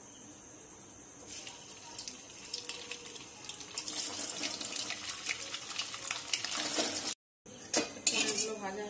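Paneer cubes sizzling and crackling in hot oil in a steel kadai. The frying starts about a second in and grows stronger about four seconds in. After a brief cut, a metal spatula scrapes and clatters against the pan near the end.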